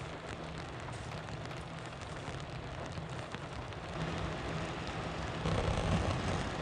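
Rain falling steadily, a dense haze of small drop ticks over a steady low hum, growing a little louder about four seconds in.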